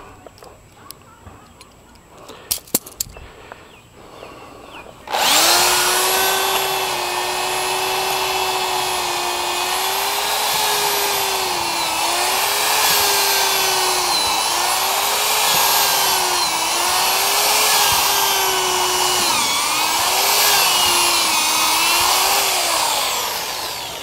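Power drill starting about five seconds in and running under load for nearly twenty seconds while boring a hole. Its motor pitch sags and recovers over and over as it bogs, then winds down near the end.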